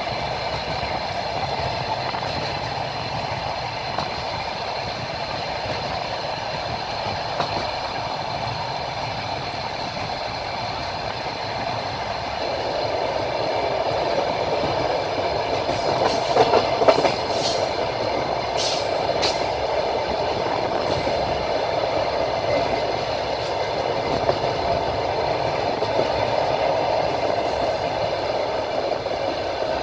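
A moving train, heard from on board: a steady rumble of wheels on the rails with the clatter of the running gear. It grows a little louder about halfway, with a few sharp clicks and brief squeaks a little past the middle.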